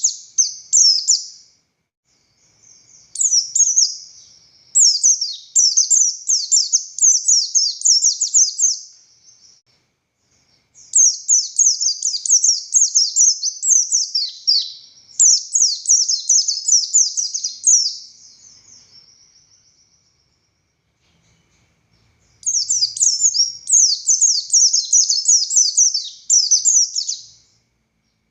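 Buxtoni white-eye (pleci) singing a fast, high chattering song of rapid, sharp, downward-sweeping notes. It sings in long phrases broken by short pauses of a second or two.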